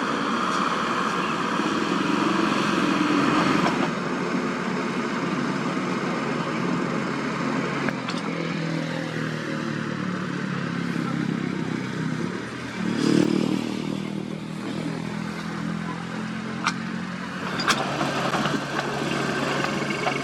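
Diesel engine of earthmoving machinery running steadily, revving up briefly about two-thirds of the way through, with a couple of sharp knocks near the end.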